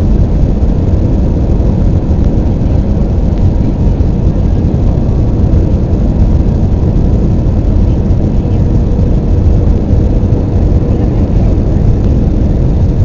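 Airbus A320 cabin noise in flight: the steady, loud rumble of the engines and airflow, with a faint steady hum over it.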